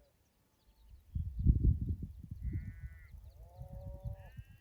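Sheep bleating three times in the second half, one call lower-pitched than the others. A loud low rumble about a second in is the loudest sound.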